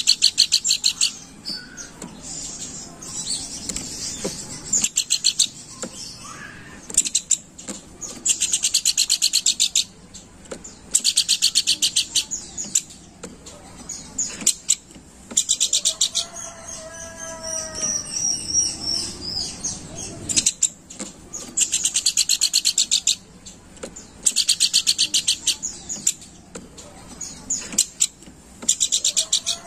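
Pelanduk bukit, a babbler, singing in a chattering way: repeated bursts of a very fast, high trill, each a second or two long, with short pauses between. About halfway through comes one lower, sliding whistled note.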